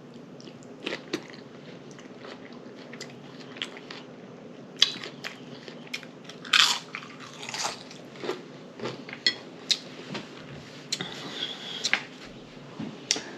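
A person eating close to the microphone: chewing and crunching food at an irregular pace, with mouth clicks and a few louder crunchy bites about five, seven and twelve seconds in.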